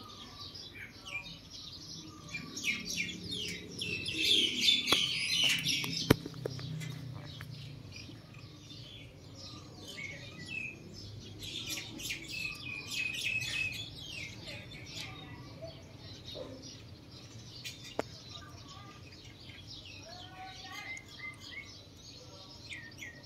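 Many birds chirping in quick, overlapping calls, busiest a few seconds in and again around the middle, with a sharp click about six seconds in.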